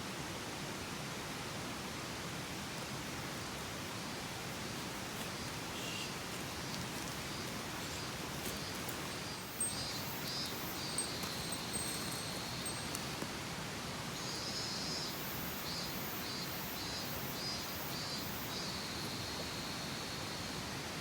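Steady rush of a mountain stream, with a bird calling in short repeated high notes from about nine seconds in, in runs of quick notes later on.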